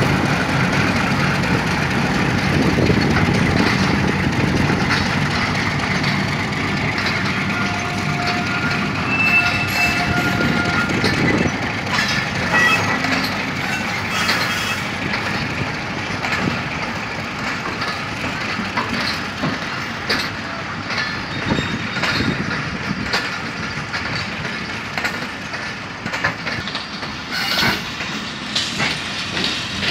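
Diesel-hauled passenger train rolling past and pulling away. The locomotive's engine rumbles heavily at first, then the coaches' wheels clatter over the rail joints in a run of sharp clicks.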